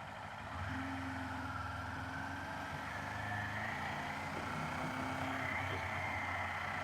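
Kawasaki Z500 parallel-twin motorcycle engine under way, picking up about half a second in and pulling with a slowly rising pitch.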